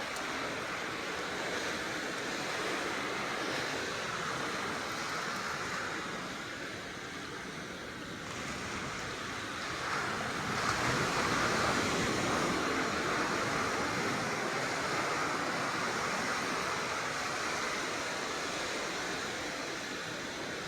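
Sea surf washing on the shore, a steady rushing noise that swells louder about ten seconds in.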